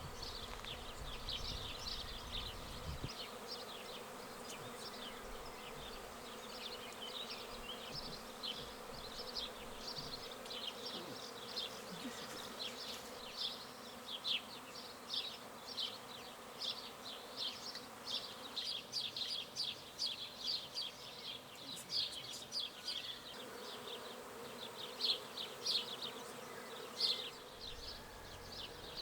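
Swarm of honey bees buzzing: a dense, continuous buzz of many bees, with a few louder moments in the second half.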